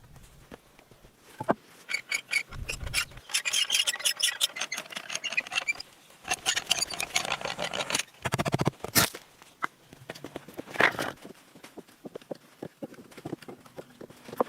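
Hand tool scraping and rasping on wood in rapid, repeated strokes for several seconds, with a few separate sharp knocks.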